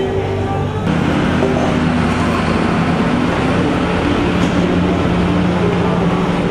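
A vehicle engine running steadily close by, with traffic noise; it gets louder about a second in.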